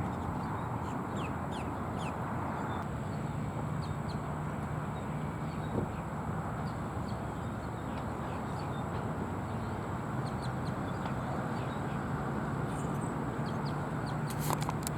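Outdoor ambience of birds giving many short, scattered chirping calls over a steady low rumble.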